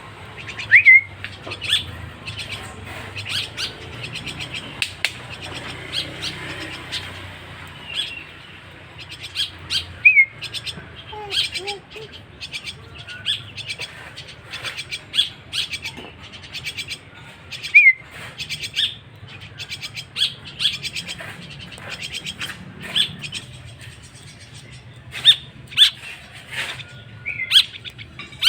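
Young starling (jalak) chick calling: many short, sharp chirps repeated throughout, with a few brief whistled notes that bend in pitch.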